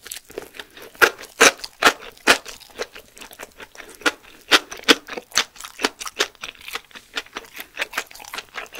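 Close-miked chewing of a kimbap roll filled with surströmming: an irregular run of crunchy chews and mouth clicks, several a second.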